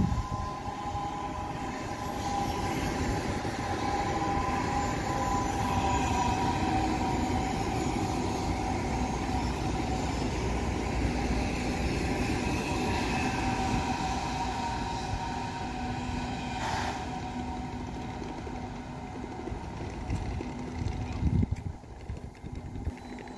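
A train running on the tracks: a steady rumble of wheels with two high whining tones held throughout. There is a knock near the end, after which the sound drops off.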